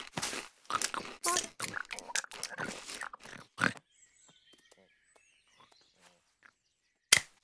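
Cartoon sound effect of a hedgehog crunching and chewing on a snail: a quick run of crisp bites over the first three and a half seconds, then near silence until a single sharp click near the end.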